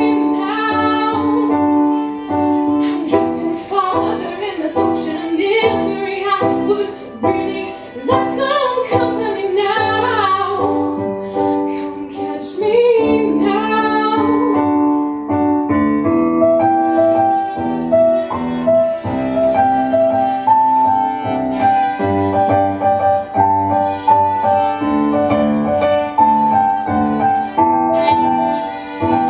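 A song with a female voice singing over piano accompaniment; about halfway through the voice drops out and the piano carries on alone.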